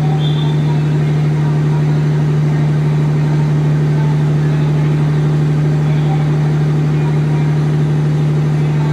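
Passenger train standing idle at the platform, its diesel power running with a steady, loud low hum.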